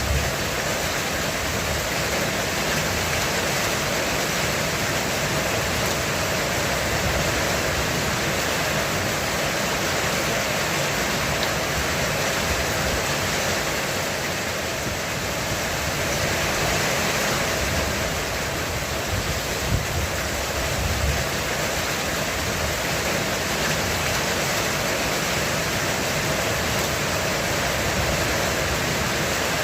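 Heavy rain falling steadily on a roof, an even unbroken rush.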